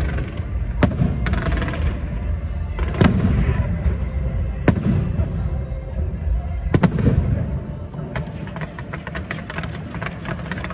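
Aerial fireworks bursting over background music: four sharp bangs with deep booms in the first seven seconds, then a fast crackle of many small pops near the end.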